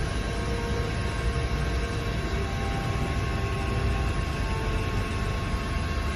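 Steady drone of a Coast Guard aircraft's turbine engines: a low rumble with several fixed whining tones, unchanging throughout.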